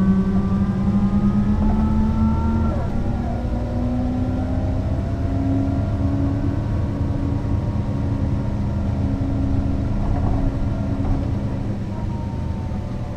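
Mercedes-Benz O 405 NÜ bus's diesel engine accelerating, its note rising and then dropping at a gear change about three seconds in, climbing again and running steady, easing off near the end.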